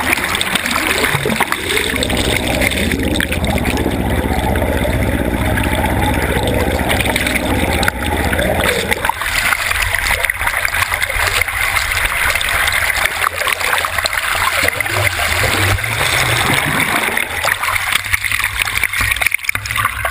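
Water rushing and splashing steadily against a camera carried at the surface from a moving boat, over a constant low rumble.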